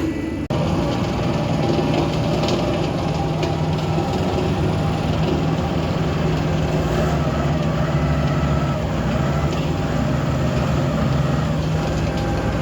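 A heavy vehicle's engine running steadily at an even pitch, starting just after a brief break about half a second in.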